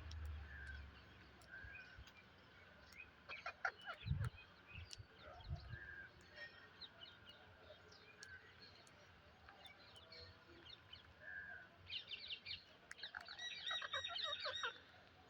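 Psittacula parakeets calling: short chirps scattered throughout, with bursts of rapid harsh chattering about three and a half seconds in and again from about twelve seconds in.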